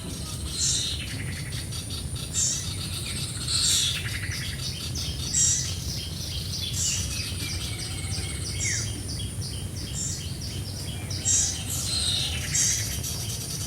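Small birds chirping and twittering, with sharp high chirps about once a second and a fast run of twittering in the middle. A steady low hum runs underneath.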